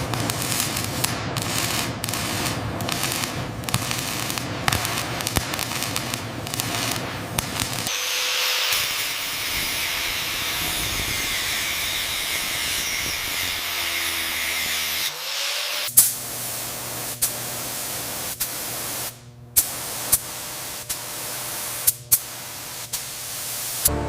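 Sandblaster spraying grit against the corroded steel of a steam locomotive: a steady loud hiss. In the last third it gives way to a quieter stretch broken by about six sharp knocks.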